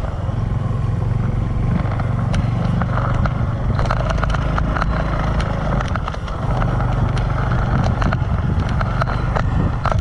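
Motorcycle engine running steadily while riding, with scattered clicks and rattles over it.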